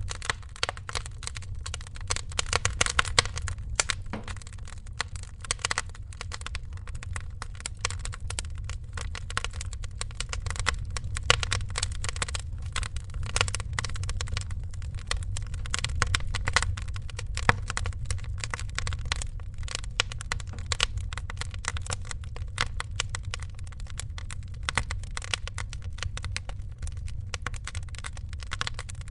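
Wood fire crackling, with dense irregular pops and snaps over a steady low rumble.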